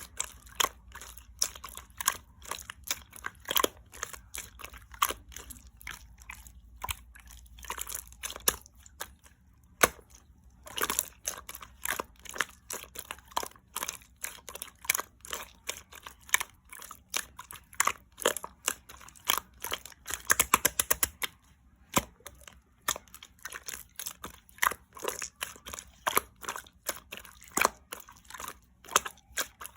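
Clear slime being squeezed, stretched and pressed by hand, giving an irregular run of sharp wet clicks and pops, several a second, with a denser burst of them about two-thirds of the way in.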